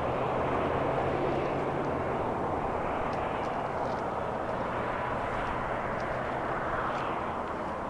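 Freight train's covered hopper cars rolling away on the rails: a steady rumble and rattle of wheels that fades slightly as the end of the train goes by.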